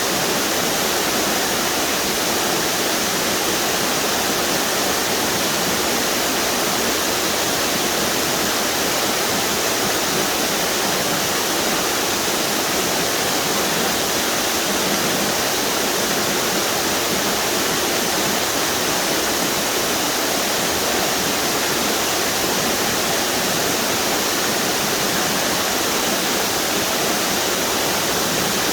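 Water pouring over a string of river waterfalls: a steady, unbroken rush.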